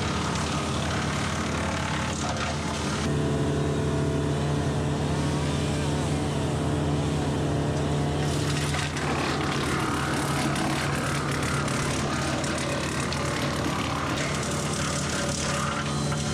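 Compact tractor's diesel engine running steadily while driving a PTO wood chipper, its tone shifting about 3 seconds and 9 seconds in.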